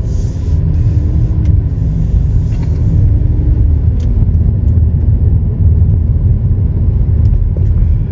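Low road and engine rumble inside a moving vehicle's cabin during a drive through town streets, with a faint engine hum that rises a little and then fades about three seconds in.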